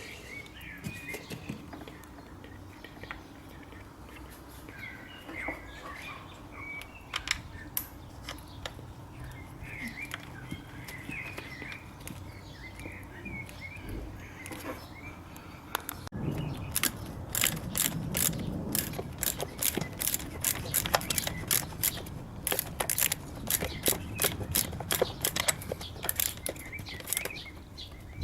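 Ratchet clicking in quick runs as a fastener is turned, starting about halfway through, after a quieter stretch of light handling sounds and faint chirps.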